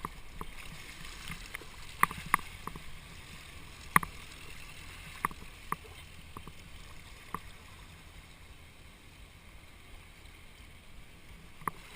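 Kayak paddling: paddle strokes in the water over a steady rush of river water, with irregular sharp knocks of the paddles against the kayak.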